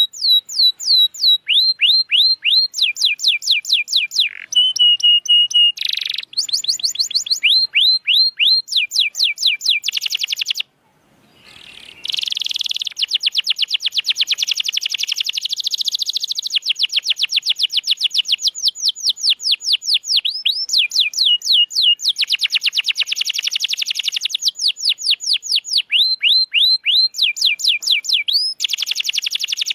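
Domestic canary in full, continuous song: fast trills of rapidly repeated, sweeping notes, the phrases changing pitch every second or two. The song breaks off for about a second a third of the way in, then resumes.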